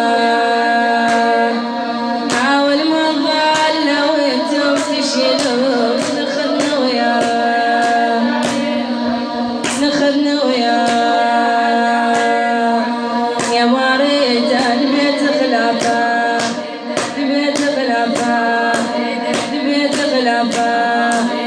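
A sung Arabic lament (latmiya) in which voices hold long, mournful notes over a steady rhythm of sharp beats.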